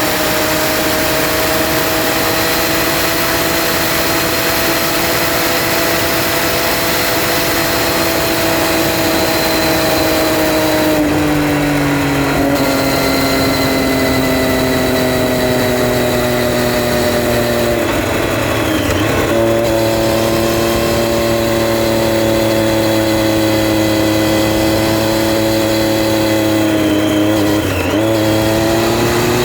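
2011 Triumph Street Triple R's 675 cc inline three-cylinder engine running under way, with rushing wind and road noise. Its note holds fairly steady, steps down in pitch about a third of the way in, dips twice more and climbs again near the end.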